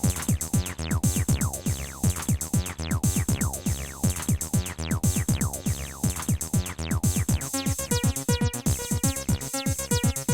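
Electronic drum-machine and synth-bass groove from a Roland T-8 beat machine, a steady fast beat under rapidly repeating notes that sweep down in pitch. About seven and a half seconds in the pattern changes to short, choppy repeated notes.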